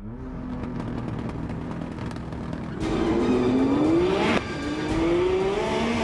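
Car engine accelerating hard, its pitch climbing steeply, dropping sharply at a gear change about four and a half seconds in, then climbing again.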